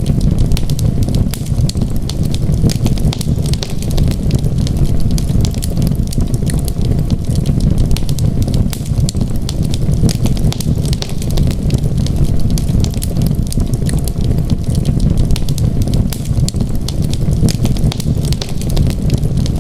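Wood fire in a fireplace crackling continuously: dense small pops and snaps over a steady low rumble.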